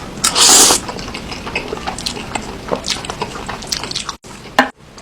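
A loud slurp of noodles about half a second in, followed by wet chewing with many short clicking mouth sounds.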